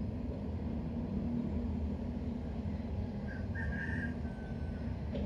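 A steady low rumble of background noise, with a brief high whistle-like tone about three and a half seconds in.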